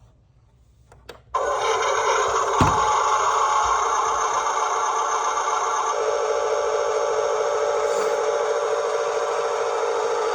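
Huina RC dump truck switched on: a click about a second in, then a sudden, steady, loud whirring running noise, which shifts in tone about six seconds in.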